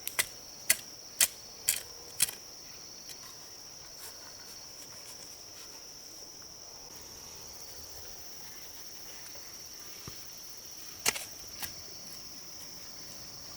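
Steady high-pitched insect chorus. A run of five sharp knocks, about two a second, comes at the start, and two more come near the end.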